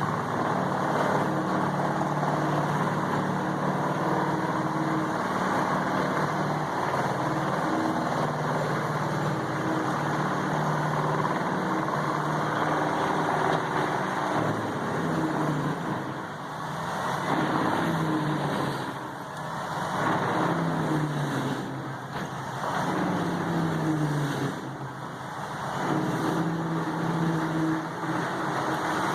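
Heavy diesel-powered wood grinder running under load, a steady engine hum over a dense grinding noise. In the second half the engine pitch sags and climbs back several times as it bogs down on the wood.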